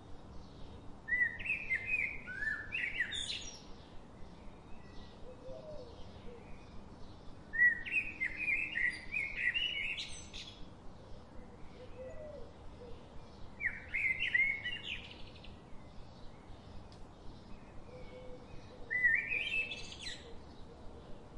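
A songbird singing four short warbling phrases a few seconds apart, each ending in a quick rising flourish, over a faint regular ticking.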